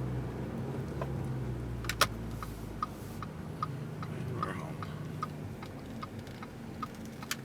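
2012 Audi A4 2.0T's turbocharged four-cylinder idling low and steady through a stainless turbo-back dual exhaust. A sharp click comes about two seconds in, then turn-signal ticking at about two and a half ticks a second.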